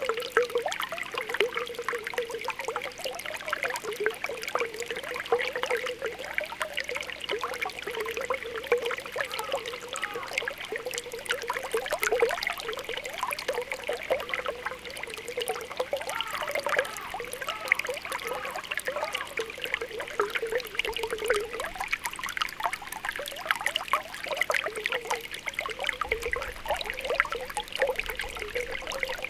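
Spring water welling up from the ground, bubbling and popping in a continuous stream of small gurgles and blips over a trickling flow.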